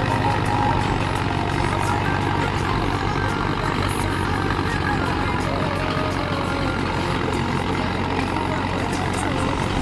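Tractor engine running steadily, a constant low hum with no change in speed.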